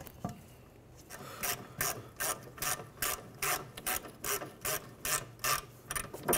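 Hand ratchet clicking in quick, even strokes, about two or three a second, as a bolt is run into the rear wheel hub to hold the hub and parking-brake assembly in place. The clicking starts about a second in.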